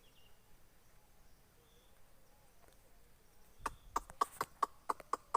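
An animal calling in a rapid series of short, sharp notes, about four a second, starting about three and a half seconds in after faint background.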